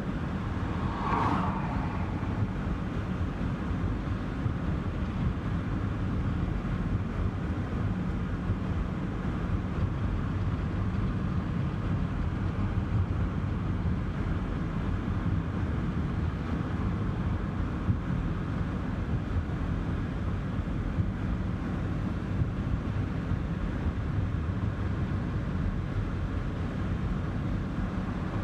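Steady road and engine rumble of a moving car, with a brief swoosh about a second in.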